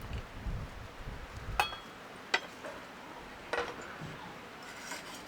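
Tableware being handled: three sharp clinks about a second apart, the first with a brief ring, and a few fainter taps near the end, over a low rumbling noise in the first second and a half.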